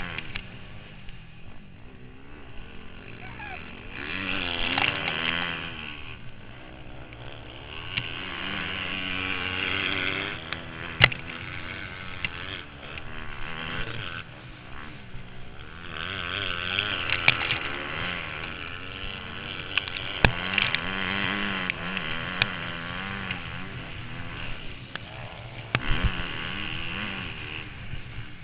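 Motocross bike engine revving up and down in repeated surges as it is ridden round the track, with rushing wind on the helmet camera. There are a few sharp knocks along the way.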